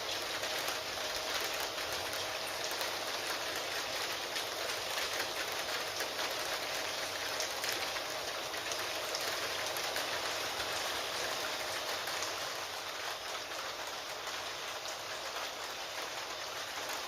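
Steady rain with a dense patter of fine drops, mixed with computer keyboard typing clicks, and a faint steady tone underneath.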